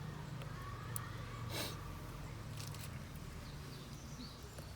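Small wood fire in a FIREBOX Nano stove crackling with a few sharp pops, over a low steady outdoor rumble; a short rush of noise about one and a half seconds in.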